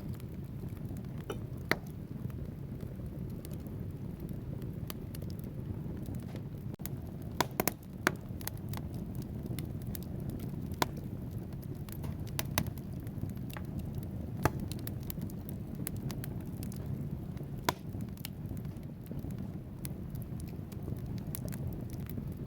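Wood fire burning in a fireplace: a steady low rumble of flames with scattered sharp crackles and pops from the logs, a few louder snaps among them.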